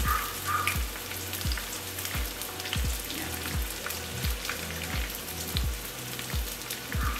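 Breaded tofu strips sizzling in hot cooking oil in a frying pan, a steady hiss with scattered small crackles. A soft low thump repeats about every 0.7 seconds underneath.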